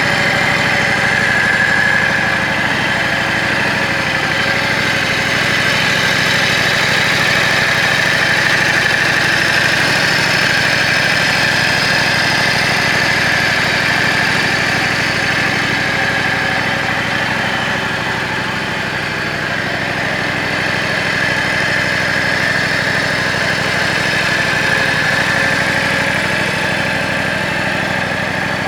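Yamaha Drag Star 400's air-cooled V-twin idling steadily through a custom aftermarket muffler, with no revving.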